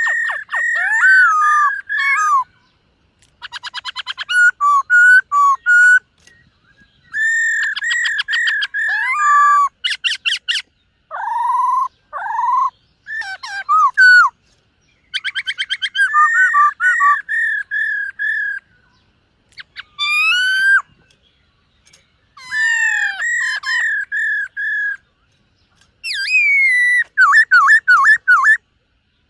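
Black-throated laughingthrush singing loud whistled phrases of clear repeated notes, mixed with rapid trills and slurred notes, with short pauses between phrases.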